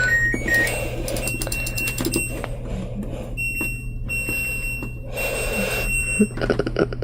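An electronic alarm sounds: a short run of beeps stepping up in pitch, then long, steady high-pitched tones that stop and start several times, over a constant low hum with scattered clicks.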